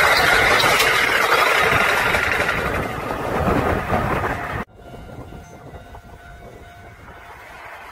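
Electric train running on rails: loud, steady wheel-and-track noise. About four and a half seconds in it cuts off abruptly to a much quieter steady rumble with a faint steady hum.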